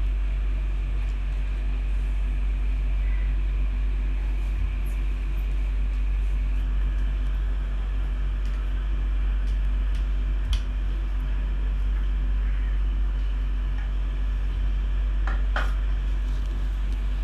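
A steady low hum or drone with no words over it, broken only by a few faint short clicks or taps.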